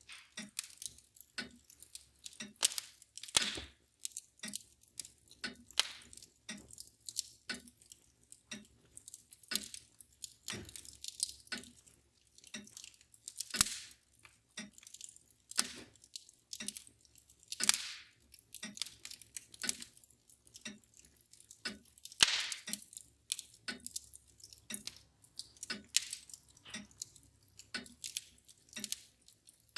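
Wood fire crackling with irregular pops and snaps, a few louder snaps standing out, over a mantel clock ticking steadily about once a second.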